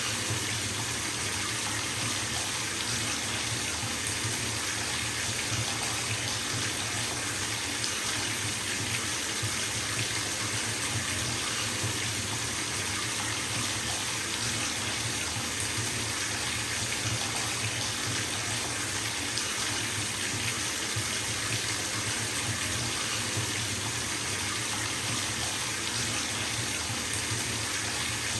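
Water running from a bathtub tap into the tub as it fills: a steady, unbroken splashing rush.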